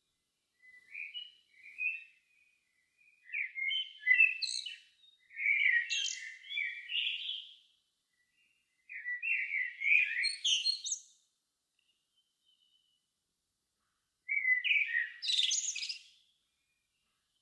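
A songbird singing in phrases of quick, varied chirps and twitters, four bursts of song with pauses of one to three seconds between them.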